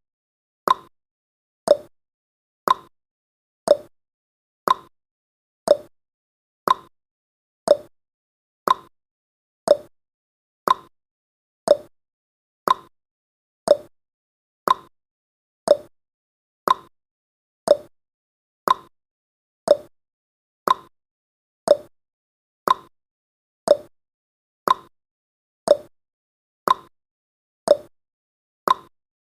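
Clock ticking sound effect counting down: a steady tick-tock of sharp clicks, about two a second, alternating between a lower and a higher pitch.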